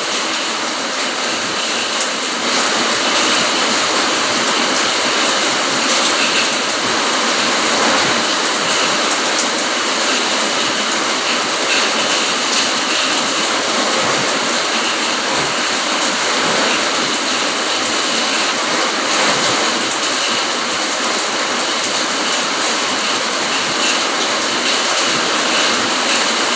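Rain falling steadily, a dense even hiss that gets a little louder about two and a half seconds in.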